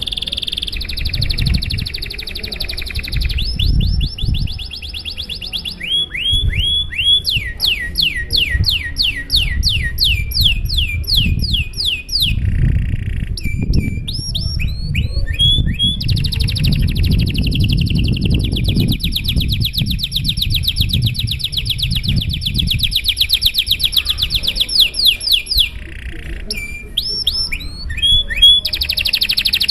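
Domestic canary singing a long unbroken song of fast trills: runs of rapidly repeated notes and quick rising chirps, switching to a new trill every few seconds, over a low background rumble.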